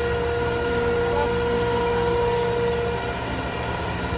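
Tour boat's motor running steadily, heard from on board, with a low drone and a humming tone that fades out about three seconds in.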